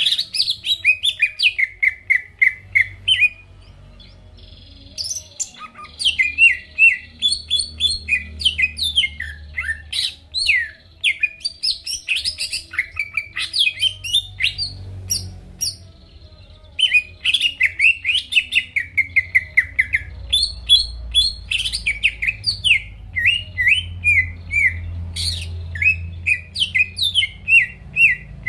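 Cucak ijo (green leafbird) singing in long, rapid runs of sharp chirping and trilled notes. There are short breaks about four seconds in and again around fifteen seconds, with a faint low hum underneath.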